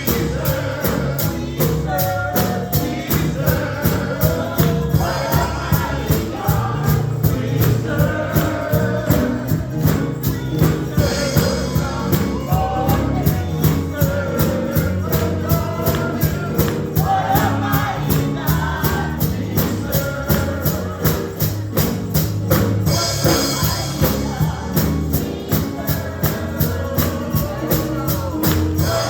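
Live gospel music: voices singing over a steady, quick percussion beat with a strong bass line.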